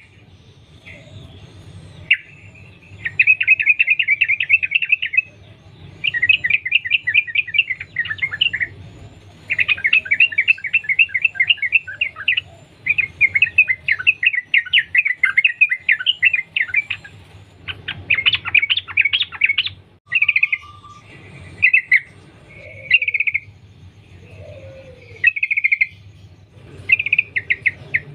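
Yellow-vented bulbul singing long runs of rapid, bubbling chattering notes, each lasting a few seconds with brief gaps between them. From about two-thirds of the way through, the runs give way to shorter separate phrases.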